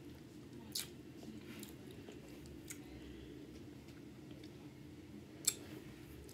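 Close-up mouth sounds of a person chewing barbecue chicken thigh, over a low steady hum. Two short sharp mouth smacks stand out, one about a second in and a louder one near the end.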